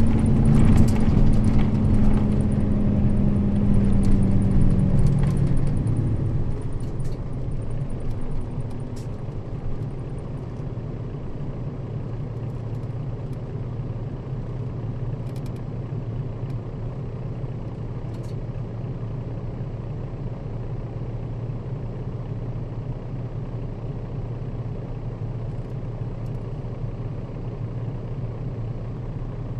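Nissan Diesel KL-RA552RBN bus heard from inside the cabin: loud at first, with a humming drivetrain tone that dips slightly and dies away about six seconds in, then a steady low engine hum.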